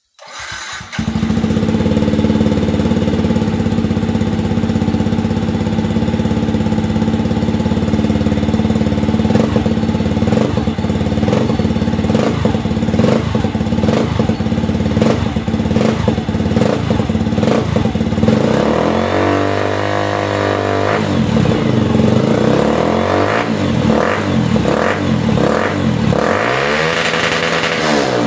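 Yamaha R15 dirt-bike conversion's single-cylinder four-stroke engine running, starting suddenly about a second in with a steady note, then rising and falling in revs again and again through the second half.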